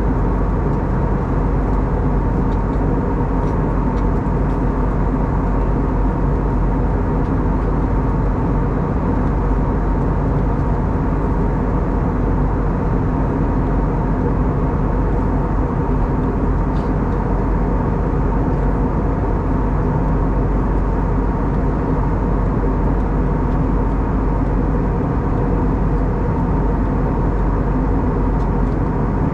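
Steady cabin noise of an Airbus A320neo in flight, heard from a passenger seat: an even rush of airflow and CFM LEAP-1A engines with a constant hum of several steady tones.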